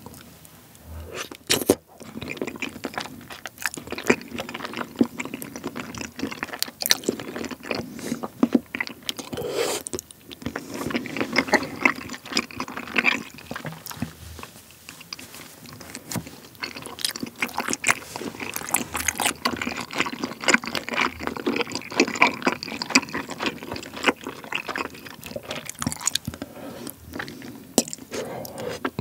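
Close-miked chewing of very chewy, sauce-coated bunmoja potato-starch noodles and rice cakes: a continuous run of wet, sticky mouth clicks and squishes.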